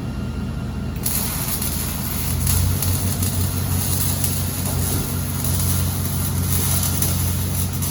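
Dodge Charger Daytona's 392 Hemi V8 running steadily, with a loud hiss of air or road noise over it from about a second in.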